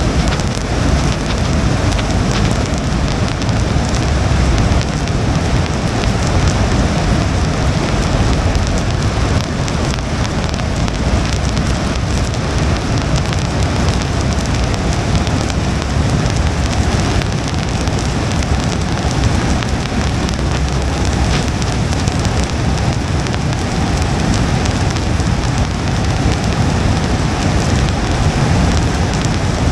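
Rain hitting a car's windshield as a steady patter of drops, over continuous low road and tyre rumble from the moving car.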